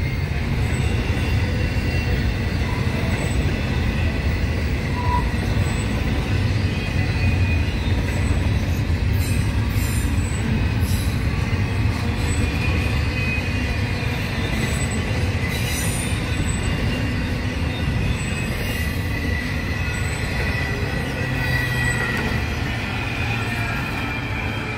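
Intermodal freight train rolling past, a steady rumble of the container wagons on the rails with a faint high-pitched steel squeal running through it. The speaker expects the train to be slowing to a stop.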